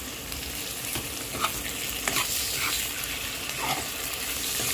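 Browned onions frying in hot oil in a pan, with a steady sizzle. A utensil stirs them and knocks against the pan a few times.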